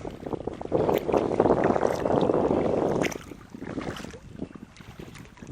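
Sounds of a small boat on the water: a loud rushing, crackly noise starts just under a second in and stops suddenly about three seconds in, leaving a quieter rustle.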